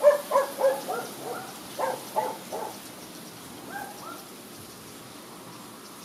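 A bird calling: a quick series of short pitched notes over the first two and a half seconds, then a few softer falling notes about four seconds in, over a steady hiss.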